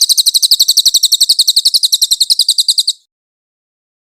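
Cililin (velvet-fronted nuthatch) giving its rapid 'nembak' burst: a fast, even run of sharp, high notes, about a dozen a second, that stops abruptly about three seconds in.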